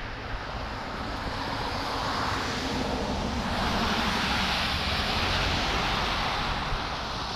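Road noise of a passing motor vehicle: a steady tyre-and-engine hiss with a low rumble that swells to its loudest about four seconds in, then eases slightly.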